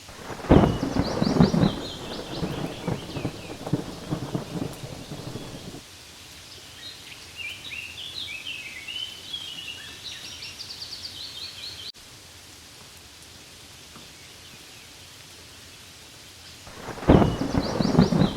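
Steady rain on leaves, with a loud crackling rumble of thunder that breaks in about half a second in and cuts off abruptly some five seconds later; the same burst starts again near the end. Short high chirping trills come and go over the rain.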